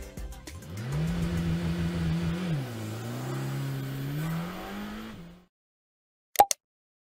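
A car engine revving: it climbs, holds, drops, then climbs again and cuts off suddenly about five seconds in. A second later come two sharp clicks.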